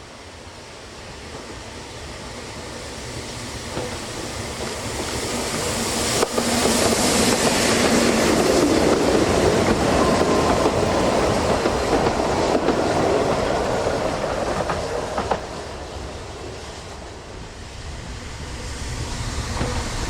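A narrow-gauge Ffestiniog Railway train approaching and passing, its wheels clattering over the rail joints. It grows louder to a peak about six seconds in, fades away, then rises again near the end.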